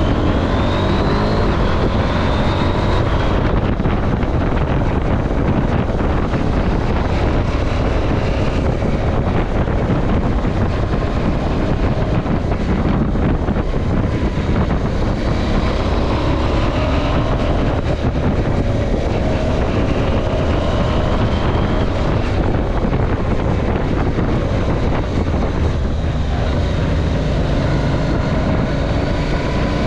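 KTM 790 Adventure's parallel-twin engine running under load, its pitch rising and falling several times as the rider accelerates and eases off, over steady wind noise on the microphone.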